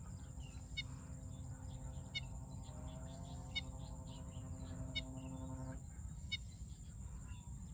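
Birds calling outdoors: one bird repeats a short, sharp note about every second and a half while others chirp. A droning hum rises in pitch and cuts off about six seconds in.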